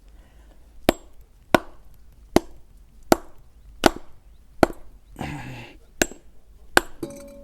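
Heavy blows striking and breaking a large bone, about eight sharp knocks at a steady pace of roughly one every three-quarters of a second, with a short rustling scrape just after the fifth.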